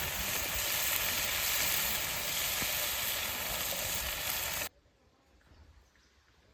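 Food frying in a pan with a steady, loud sizzle that cuts off suddenly about four and a half seconds in.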